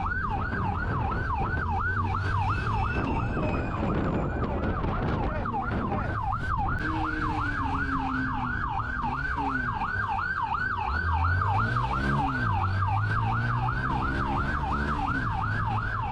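Police siren wailing in a fast yelp, sweeping up and down about three times a second, over engine and road noise from the chase. About two-thirds of the way through, an engine rises and falls in pitch.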